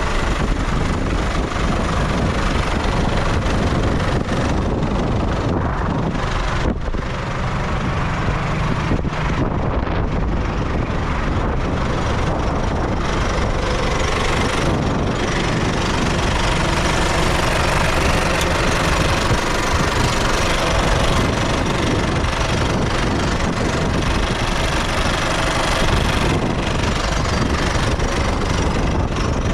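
MTZ-80 tractor's D-243 four-cylinder diesel engine running steadily while the tractor is driven, heard from the driver's seat. The sound dips briefly about seven seconds in.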